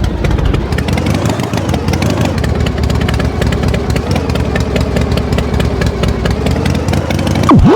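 Tractor engine running steadily with rapid, even firing pulses, a cartoon sound effect. A short sliding whistle-like tone comes in near the end.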